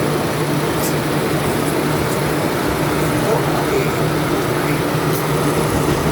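Steady running noise of a subway train heard from inside a moving car: a constant rumble and low hum, with a few faint high clicks about a second in and again near the end.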